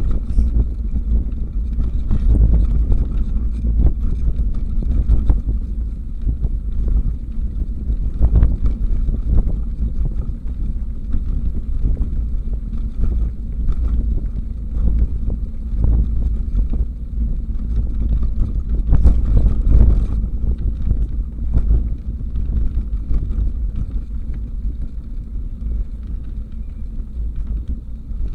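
Wind buffeting the microphone while riding a bicycle, a steady low rumble with rolling road noise under it.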